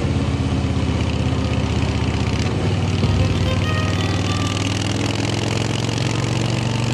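Motorcycle engine idling steadily with an even, rapid pulsing beat.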